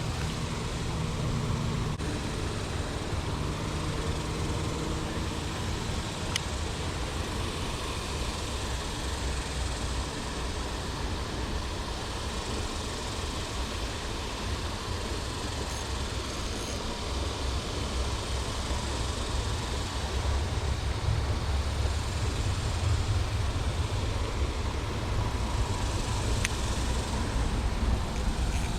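Steady low rumble with a hiss over it, growing somewhat louder about twenty seconds in.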